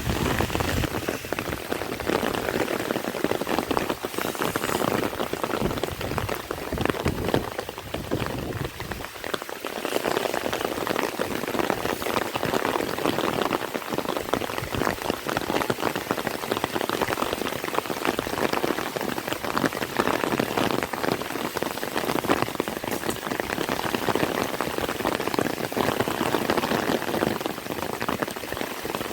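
Heavy rain falling steadily, a dense hiss of many individual drops striking close by.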